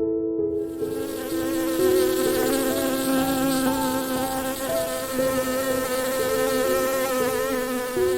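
A buzzing insect: a steady, wavering drone that starts about half a second in and runs on, over held background music notes that change pitch every second or so.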